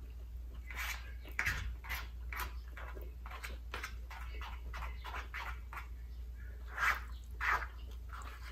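Close-miked eating sounds: wet chewing and lip smacking in short irregular bursts, several a second, the loudest a few around seven seconds in.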